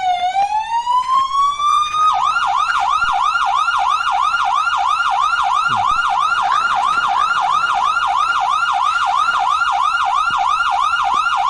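Toy ambulance's electronic siren: a slow wail rising in pitch for about two seconds, then switching to a fast yelp of about three sweeps a second.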